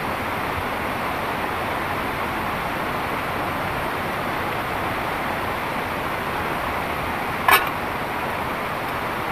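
Heavy rain falling steadily, with a single short sharp click about seven and a half seconds in.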